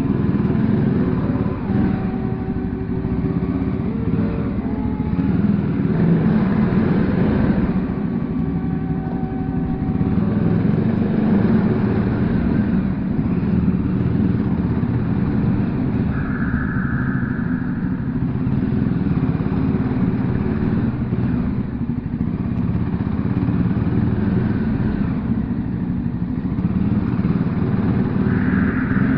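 Voge 300R single-cylinder motorcycle engine running under way, its pitch stepping up and down with throttle and gear changes, over steady wind rush.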